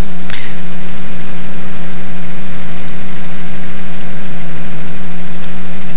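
Light aircraft piston engine and propeller idling steadily after a cold start, warming up: a loud, even hum with a constant low tone.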